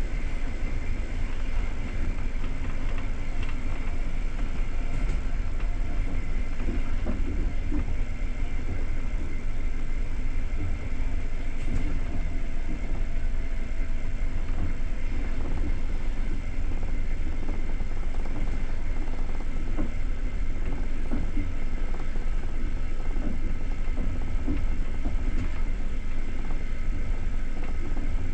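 Passenger train carriage in motion: a steady, even rumble of the wheels running on the rails.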